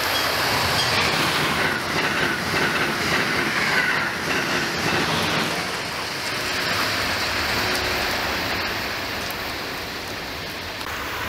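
Amtrak Acela Express high-speed trainset passing at speed: a loud rush of wheel and air noise with clacking over the rail joints, easing off over the last few seconds as it goes by.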